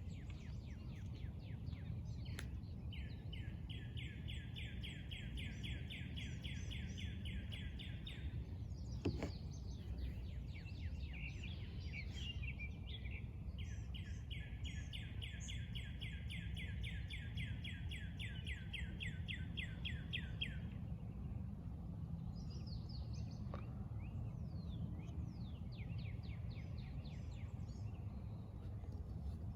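Songbirds singing outdoors: one bird gives two long, even trills of rapid repeated notes, about five a second, with fainter chirps from other birds around it. A steady low rumble of background noise runs underneath.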